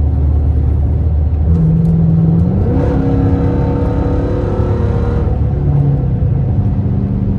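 Straight-piped 5.7 L HEMI V8 of a 2013 Dodge Charger R/T under a hard pull: cruising steadily, then about two and a half seconds in the revs climb and the exhaust gets louder for a couple of seconds before he lifts off and it settles back to a steady cruise.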